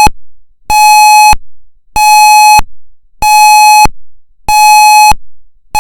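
Federal MCP siren sounding its pulse steady signal: a loud, fixed-pitch buzzy tone beeping on and off, about one beep every one and a quarter seconds.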